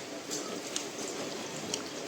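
Wet eating sounds: chewing and mouth clicks, with a few sharp smacks over a soft, moist background.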